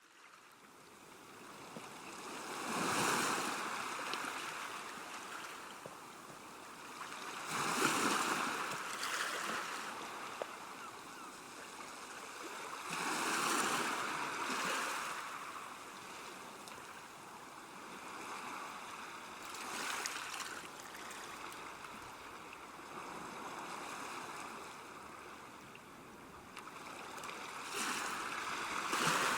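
Water washing against a river bank, fading in at the start, then swelling and easing in surges about every five seconds over a steady rush.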